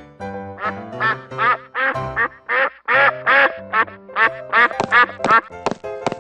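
Duck quack sound effects, about a dozen short quacks in quick succession, over steady background music.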